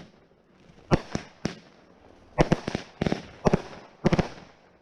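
Consumer fireworks going off in a string of sharp bangs, some single and some in rapid clusters of several pops.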